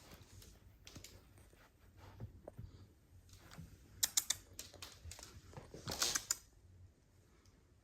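Irregular light clicking and scratching, with a sharp run of clicks about four seconds in and a longer scratchy burst around six seconds.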